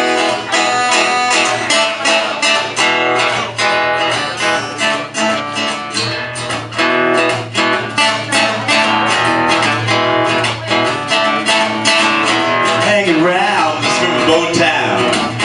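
Acoustic guitar strummed in a steady rhythm, the instrumental opening of a song before the singing comes in.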